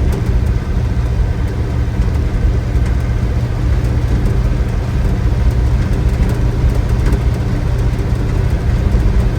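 Old pickup truck's engine running steadily under load in second gear, pulling up a hill, heard from inside the cab as a low drone.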